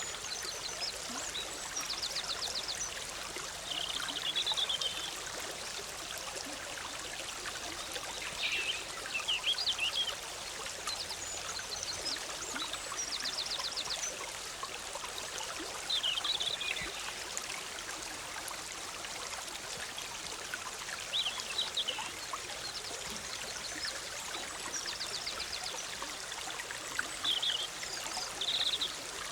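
A forest stream bubbling steadily. Songbirds call over it every few seconds with short high chirps and quick trills.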